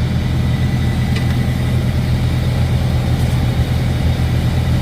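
Heavy semi truck's diesel engine idling with a steady low rumble.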